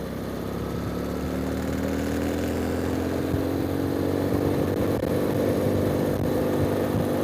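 Ural motorcycle's flat-twin engine pulling under load, its pitch and loudness climbing slowly over the first few seconds and then holding steady, with wind and road noise over it.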